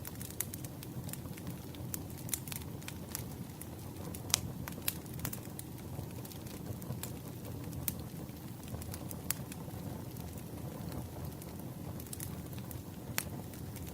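Campfire crackling: a steady low rumble of burning wood with irregular sharp pops and snaps, the loudest about four seconds in.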